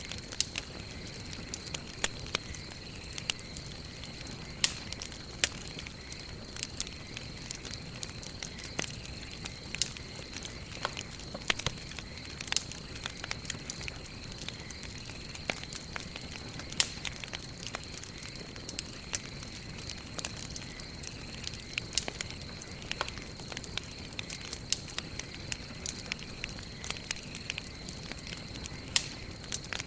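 Wood campfire burning, crackling with irregular sharp pops, a few much louder than the rest, over a steady low hiss of the flames. A faint steady high-pitched tone sits underneath.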